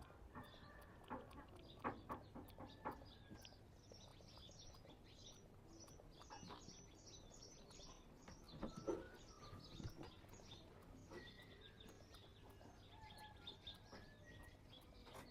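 Faint chirping of small birds: many short, high chirps in quick runs, with a few soft clicks and taps among them.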